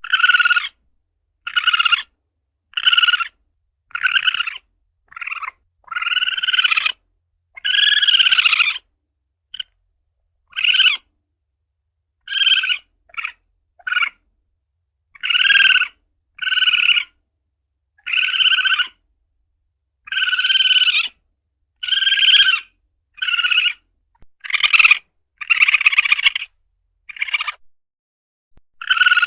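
Civet (luwak) calls: a long series of short, high, pitched calls, each under a second, repeated roughly once a second with silent gaps between.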